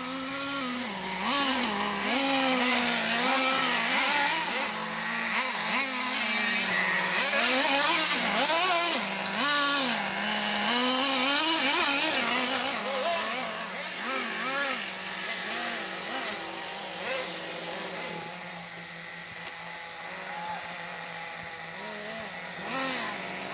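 Small nitro engines of radio-controlled trucks running, their pitch swinging up and down over and over as the throttle is blipped, over a steady lower drone. A rushing hiss sits over them for the first half.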